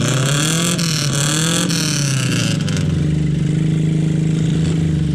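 Motorcycle engine running, its pitch rising and falling with the throttle for the first few seconds, then holding steady.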